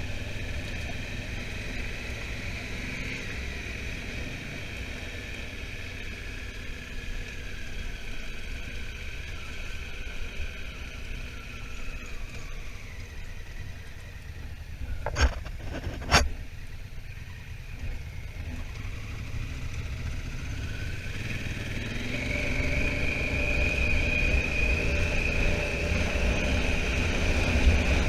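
Honda Africa Twin motorcycle riding, its engine note and wind rumble easing off as it slows. Two sharp clicks come about a second apart midway, then the engine note rises and grows louder as the bike accelerates away.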